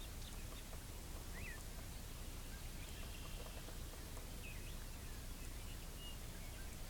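Faint, scattered bird chirps and short calls over a quiet, steady background hiss.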